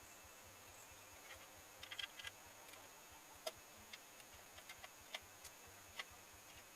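Near silence with faint scattered clicks and ticks: a quick cluster about two seconds in, then single sharp ticks every second or so.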